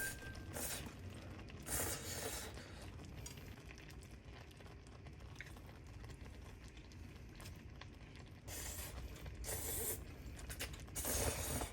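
Faint handling noises, with a few short scraping or rustling bursts about a second in and again near the end.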